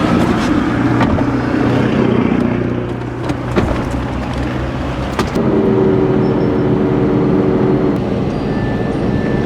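Motor vehicle on the move: its engine runs steadily under road noise, and its pitch steps up about five seconds in, as when the engine pulls harder or changes gear.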